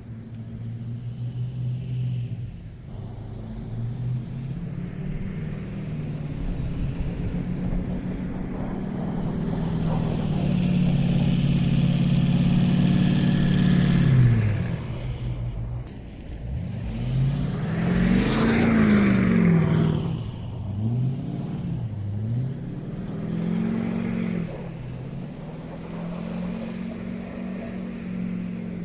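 Truck engine revving while doing donuts in snow, its pitch building over the first half to a peak, then rising and falling in several quick revs through the second half.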